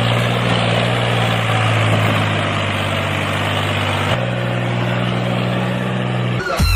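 A steady engine-like motor hum that steps down slightly in pitch about four seconds in and cuts off just before the end.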